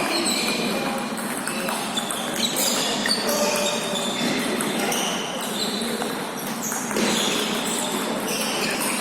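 Table tennis rally: the ball clicking off the bats and bouncing on the table, a rapid run of short, sharp, ringing pings, with more overlapping ball clicks from other play in the hall.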